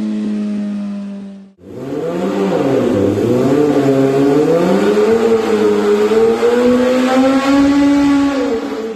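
Kawasaki ZX-10R inline-four through an aftermarket exhaust, first holding a steady pitch. After a cut about one and a half seconds in, the engine dips in pitch, then climbs slowly under throttle for several seconds and falls off near the end.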